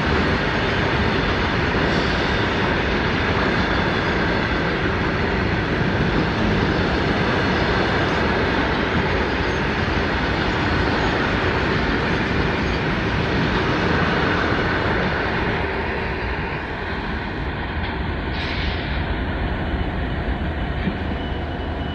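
Long freight train of open-top wagons rolling past on the track: a loud, steady rumble of wheels and wagons, easing a little in the last few seconds as the end of the train passes.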